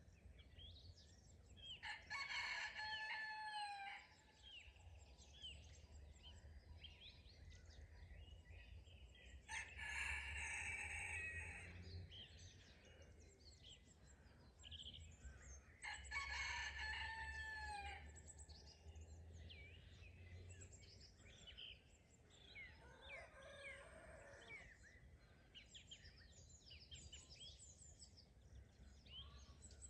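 Rooster crowing four times, each crow about two seconds long and ending in a falling note, the last one fainter. Small songbirds chirp and twitter throughout.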